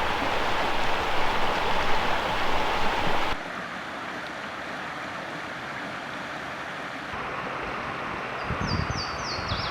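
Fast-flowing brook water rushing loudly for about three seconds, then cutting to a softer background. Near the end a Louisiana waterthrush sings a quick run of four or five clear, downward-slurred whistles, with a few low thumps.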